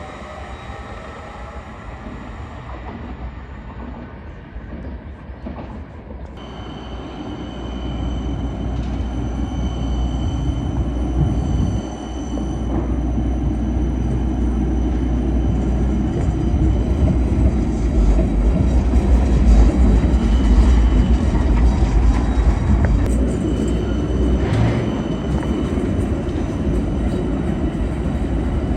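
Train running on the rails, growing louder over the first several seconds into a steady deep rumble, with a thin high whine held above it.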